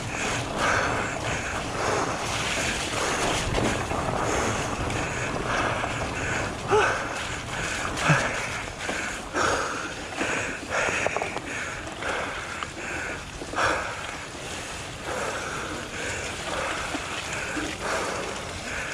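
Mountain-bike ride on a rough, muddy trail: wind rushing over the microphone and fat tyres rolling over the ground, with frequent knocks and rattles from the bike over bumps.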